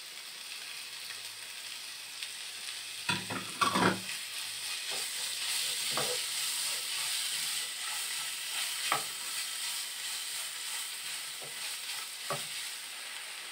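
Small shrimp frying with onion and spices, stirred with a silicone spatula: a steady sizzle, with a few sharper scrapes and knocks of the spatula against the pan, the loudest about three to four seconds in.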